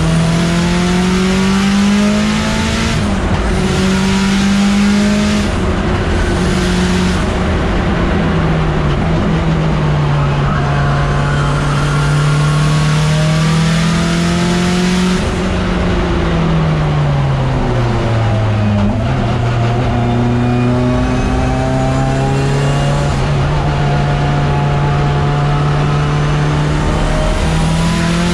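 Mitsubishi Lancer Evolution X race car's turbocharged 2.0-litre four-cylinder engine under hard driving, heard from inside the stripped, roll-caged cabin. The engine note climbs and drops repeatedly with gear changes, dips lowest about two-thirds through, then holds and climbs again near the end.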